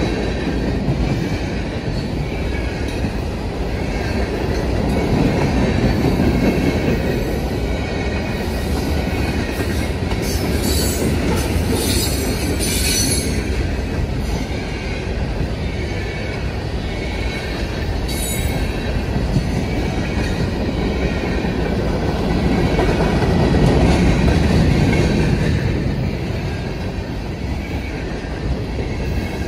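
Freight cars (covered hoppers, tank cars and gondolas) rolling past at close range: a steady rumble of steel wheels on the rails. Brief high wheel squeals come about a third of the way in and again a few seconds later.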